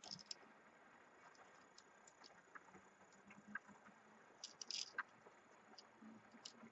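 Near silence with faint, scattered small clicks and taps of a die-cast toy car being handled, with a short cluster of them about two-thirds of the way through.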